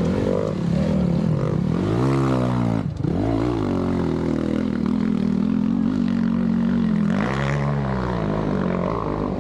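Dirt bike engine running and revving, its pitch rising and falling with the throttle; it cuts back sharply about three seconds in, then picks up again, with another rev up and down near the end.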